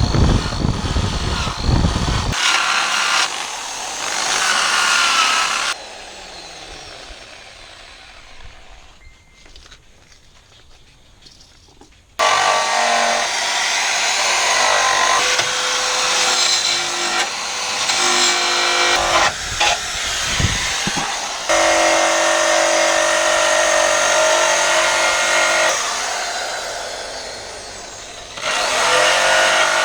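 A handheld power tool runs in several short clips that start and stop abruptly, with a steady motor whine and a harsh grinding hiss. It is cleaning rusty steel on the car's chassis back to bare metal, ready for welding.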